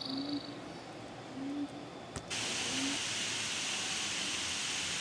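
Three short low calls about a second and a half apart. A little over two seconds in, the sound switches abruptly to the steady rush of falling water.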